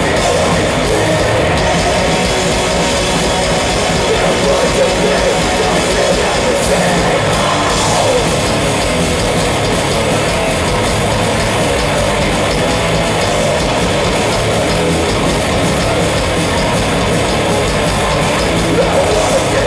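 Heavy metal band playing live: distorted electric guitars, bass and a pounding drum kit in a loud, dense, unbroken wall of sound.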